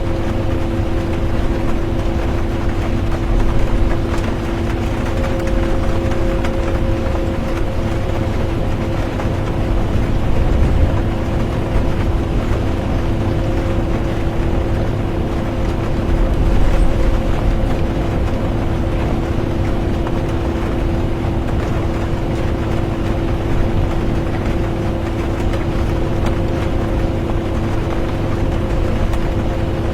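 Interior of a moving bus: steady engine and road rumble with a constant droning hum, under an even hiss of rain. The rumble swells briefly a few times.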